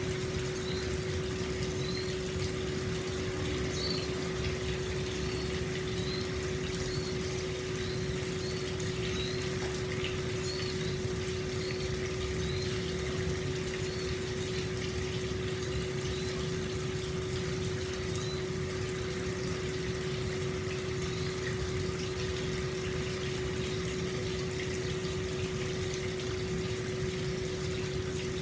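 Hot spring water flowing steadily out into an open-air bath, an even rush of water with a steady low hum under it. A series of short high chirps repeats about once a second through the first two-thirds.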